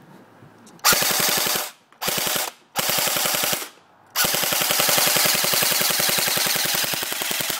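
JG Dragon CQC airsoft electric gun firing on full auto: three short bursts, then one long burst of about three and a half seconds. Each burst is a rapid, even clatter of shots at about 800 rounds a minute.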